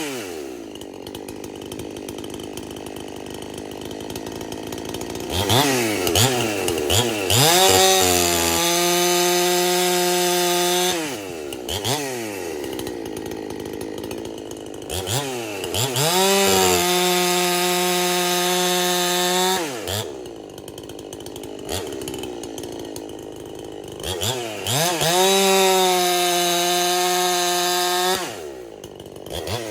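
Big bore Husqvarna 372 clone chainsaw, base gasket deleted and muffler opened up, idling and then three times revving up to full throttle, held for several seconds each time before dropping back to idle.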